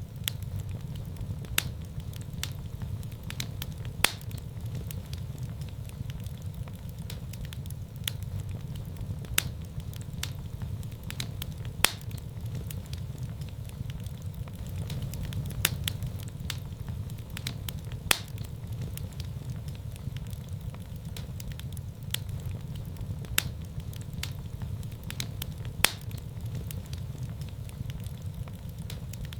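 Wood fire burning in a fireplace: a steady low rumble of flames with irregular crackles, several a second, and a few louder pops.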